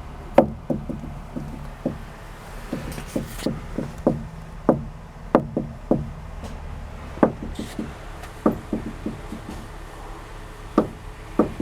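Volvo S60 R front strut tower clunking repeatedly as the steering wheel is turned: a run of sharp knocks, often two or three close together. The owner suspects the strut's upper spring seat bearing, with the coil spring binding and then releasing its tension.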